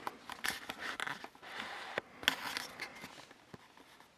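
Irregular rustling and small clicks close to the microphone, tailing off near the end.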